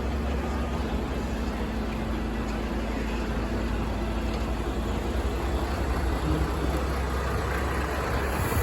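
Heavy diesel engine of the excavator or a dump truck running steadily, a deep, even rumble at a constant level.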